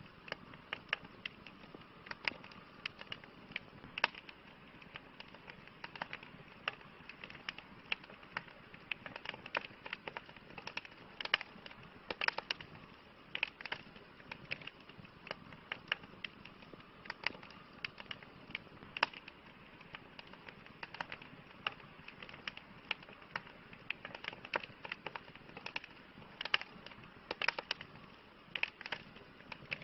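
Campfire crackling: irregular sharp pops and snaps of burning wood, several a second, over a soft steady hiss of flame.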